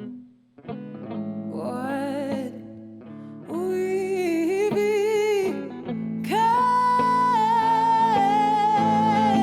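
Female singer vocalising held, wordless notes with vibrato over guitar accompaniment. The music dips briefly near the start, then rises to a long, high held note from about six seconds in.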